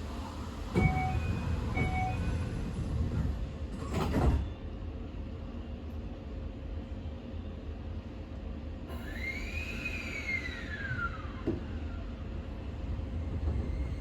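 Keio Liner train running between stations, heard from inside the car: a steady rumble of wheels on rail, with a loud rushing swell about four seconds in. Near ten seconds a whine rises, then slides down and fades.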